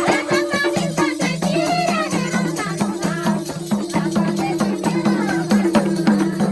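Nepali folk dohori music, an instrumental passage between sung verses: a steady rhythm of repeated low notes and quick percussion strikes under a wavering melody.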